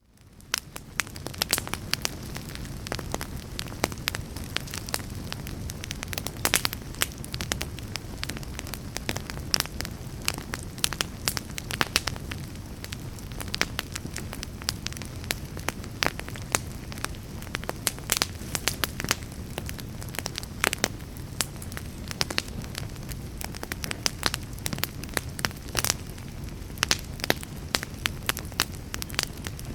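Wood fire burning in a fireplace: logs crackling and popping in sharp, irregular snaps over a steady low rumble of flame. It fades in over the first second.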